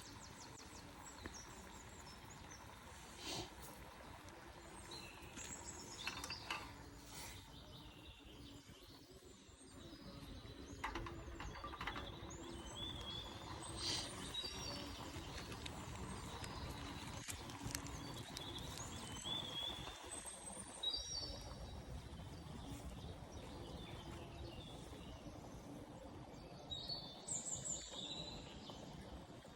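Small birds chirping now and then over a steady low outdoor background, with a few brief knocks.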